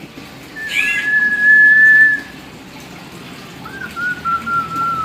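Hill myna whistling: a short chirp leading into a long, level whistle, then a second, slightly lower level whistle that opens with a quick up-and-down flick.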